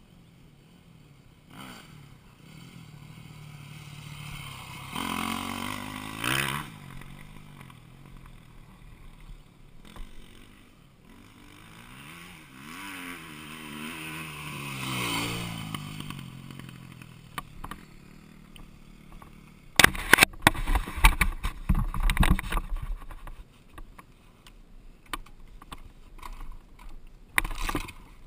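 Dirt bike engine swelling and fading twice, its pitch rising and falling with the revs. About two-thirds of the way in come loud bursts of clattering and rough knocks.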